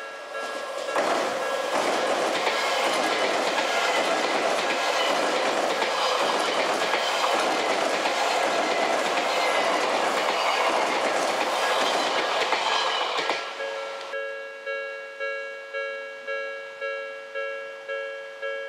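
Railway level-crossing warning bell ringing in an even, repeating beat while an Odakyu train runs over the crossing for about twelve seconds, the noise of its wheels on the rails covering the bell. The train has passed by about thirteen seconds in, and the bell rings on alone.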